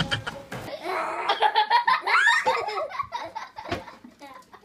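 People laughing in repeated voiced bursts that trail off toward the end.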